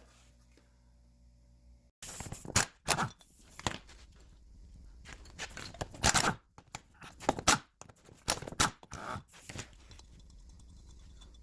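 Irregular metal scraping and knocking from hand tools working the 14 mm bolts off the back of a front wheel hub. It comes in a run of separate bursts of differing length, starting abruptly about two seconds in and dying away near the end.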